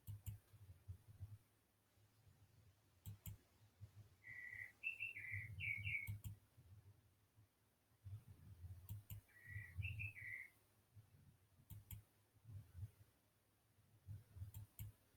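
Near silence with a few faint clicks and two short runs of high chirping notes, about five seconds apart.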